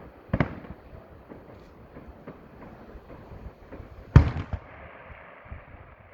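Fireworks exploding: two loud bangs, one just after the start and a louder one about four seconds in, followed by a quick run of smaller pops, with faint scattered pops in between.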